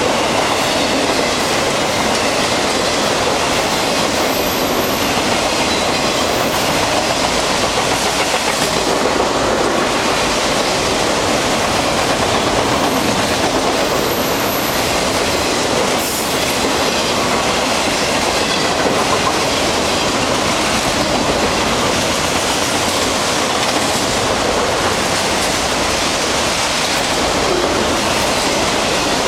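Long freight train of autorack cars passing at speed, its wheels running on the rails in a steady, unbroken noise.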